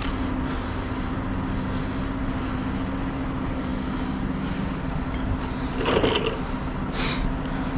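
A truck's diesel engine idling steadily with a low, even hum. Two brief noisy sounds come about a second apart near the end.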